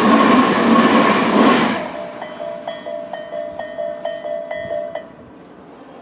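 Tobu 100 series Spacia express train rushing past over the rails, its noise dropping away sharply about two seconds in. The level crossing's electronic warning alarm (Tobu 'sound A' type) then goes on chiming about twice a second, and cuts off about five seconds in as the crossing clears after the train.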